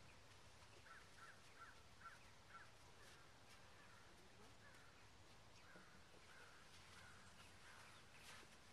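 Near silence with faint bird calls in the distance: a quick run of about five short calls a second in, then scattered calls.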